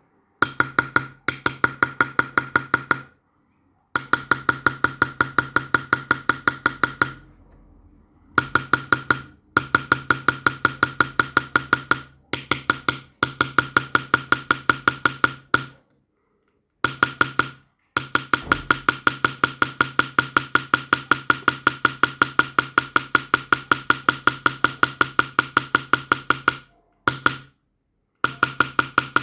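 Small hammer tapping a chasing or engraving chisel into silver. The taps come quick and even, about eight a second, in runs of several seconds with short pauses between, and each tap has the same ringing note.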